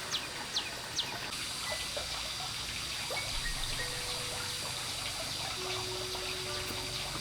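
Steady trickling water, with a bird giving a few short downward-sliding calls in the first second.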